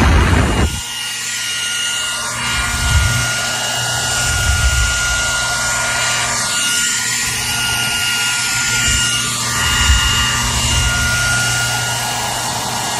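Hair dryer running steadily: a full rush of blown air with a thin, steady high whine, and uneven low rumbles underneath.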